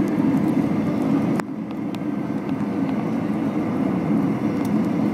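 Steady cabin roar of an Airbus A320-200 on final approach: engine and airflow noise heard from inside the cabin. A sharp click comes about one and a half seconds in, after which the roar is a little quieter and duller.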